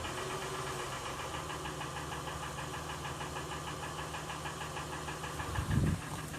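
2007 Honda Ridgeline's 3.5-litre V6 idling in park, with a fast, even ticking over the idle: the unexplained engine noise the owner is complaining of. There is a brief low surge near the end.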